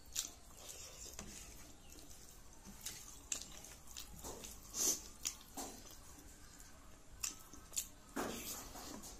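Close-miked eating sounds of a person eating rice by hand: chewing with scattered short, wet smacks and clicks, about one or two a second.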